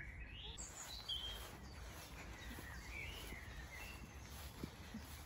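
Faint birdsong: scattered short chirps and whistled phrases over a steady low rumble.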